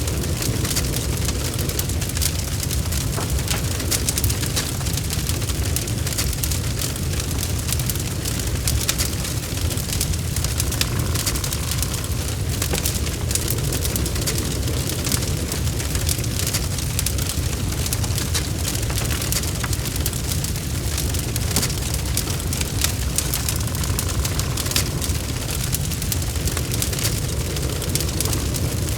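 Wood fire burning in a fireplace: logs crackling and popping continuously in quick irregular clicks over a steady low rumble of the flames.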